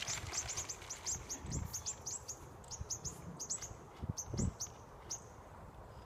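A bird chirping rapidly, a steady string of short, high chirps at about five a second that stops about five seconds in. A couple of low thumps come in between.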